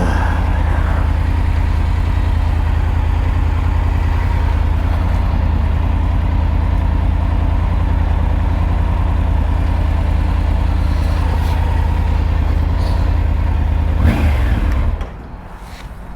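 Triumph Tiger 900 motorcycle under way, its engine and the rush of wind making a steady low drone. Near the end there is a brief louder scuffle, and then the noise drops off sharply as the bike comes to a stop.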